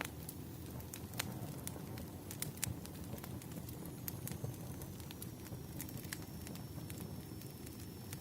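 Firewood burning, with irregular sharp pops and crackles over a low steady rumble. A faint high steady whistle joins about halfway through.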